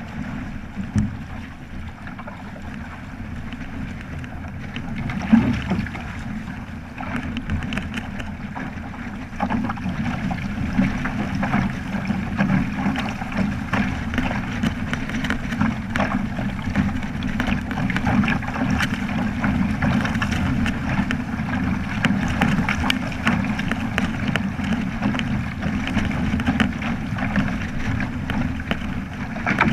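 Water rushing and splashing along the hull of a Flying Fifteen keelboat under sail, with wind buffeting the microphone and small scattered knocks. The rush grows louder about ten seconds in.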